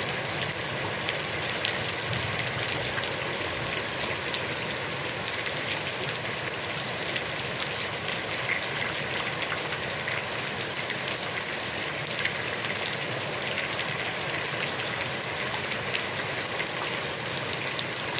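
Heavy rain falling steadily onto a pond's surface: an even hiss dotted with countless small drop ticks.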